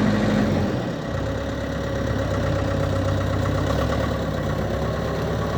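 Komatsu WB93-2A backhoe loader's diesel engine running steadily. Its note drops a little about a second in, then holds even.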